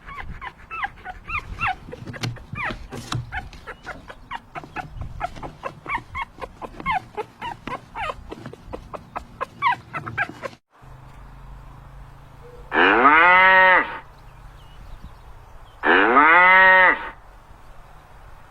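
A dense chorus of short, overlapping chirping calls, then after a sudden cut a cow mooing twice, two loud, long calls about three seconds apart.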